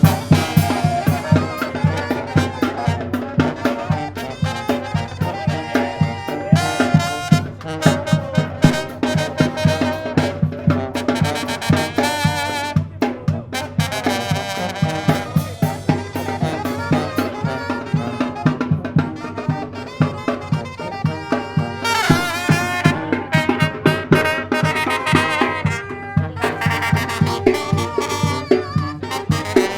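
Tamborazo band playing live: trumpets, trombones and saxophones carry the melody over the steady beat of the tambora bass drum.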